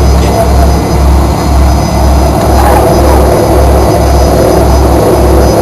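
Fokker 100 jet engines (Rolls-Royce Tay turbofans) running, heard inside the cabin as a loud, steady roar on the ground before takeoff. A deep rumble beneath it pulses about twice a second.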